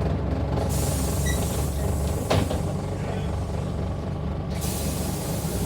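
Scania N94UD Omnidekka double-decker bus running with a steady low diesel drone; its engine is a five-cylinder. A hiss sets in about a second in and stops near the end, with a sharp click about two seconds in.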